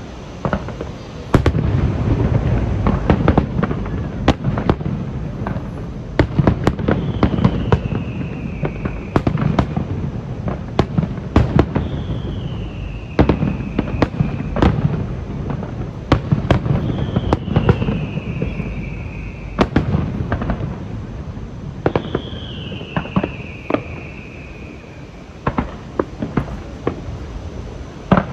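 Aerial fireworks display: a steady barrage of booming shell bursts with sharp crackling pops, and four high whistles falling in pitch, about five seconds apart.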